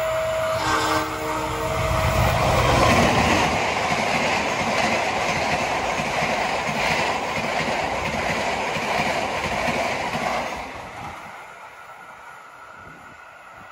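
Level-crossing warning alarm sounding in two alternating tones, with a short train-horn blast about a second in, as a passenger train runs past at speed close by. The train noise drops sharply about eleven seconds in, leaving only a faint background.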